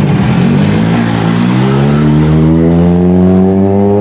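A rally car's engine running loud under hard acceleration. The pitch drops briefly at the start, then rises steadily for about three seconds as the car pulls through a gear.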